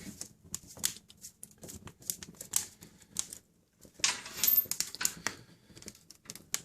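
Wood fire crackling in a fireplace: irregular sharp pops and snaps, with a denser run of crackling about four seconds in.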